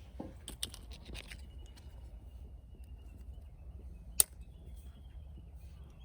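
Burning firewood crackling with scattered small snaps and one loud, sharp pop about four seconds in.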